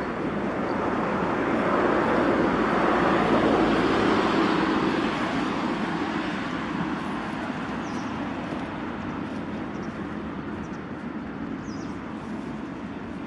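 A road vehicle passing by: a broad rush of tyre and engine noise that swells over the first few seconds and then slowly fades away.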